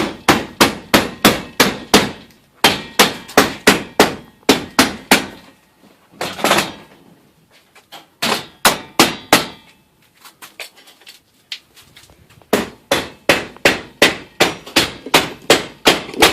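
A hammer striking repeatedly in quick, even runs of about four or five blows a second, with a few pauses. The longest pause comes midway, and the blows pick up again for a final run near the end.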